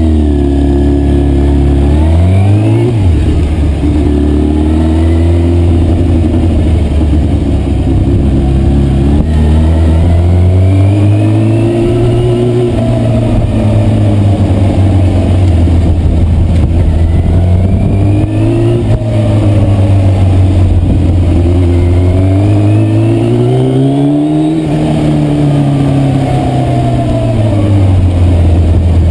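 Yamaha Thundercat (YZF600R) 600 cc inline-four motorcycle engine running under way at low speed, its revs rising and dropping back about four times as the rider opens and closes the throttle.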